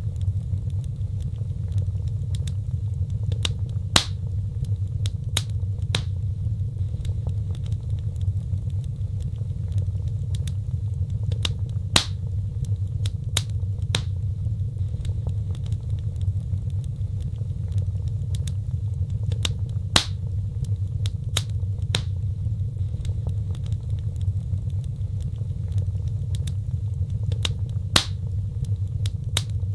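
Wood fire crackling, with sharp scattered pops over a steady low rumble of burning. The loudest pops come about every eight seconds.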